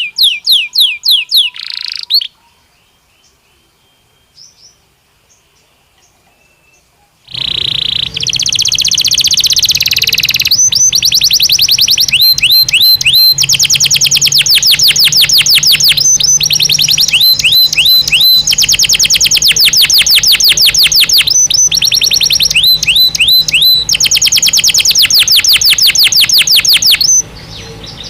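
Belgian canary singing fast trills of rapidly repeated sweeping notes. The song breaks off about two seconds in, pauses for about five seconds, then resumes as a long unbroken, loud run of trills that drops away near the end.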